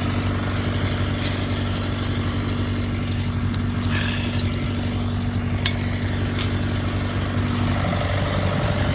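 Old farm tractor's engine idling steadily, with a few faint clicks and knocks over it.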